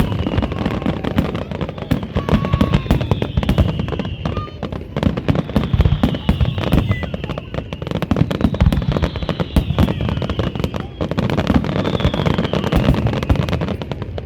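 Fireworks display going off in a rapid, continuous run of bangs and crackles, with high falling whistles several times over.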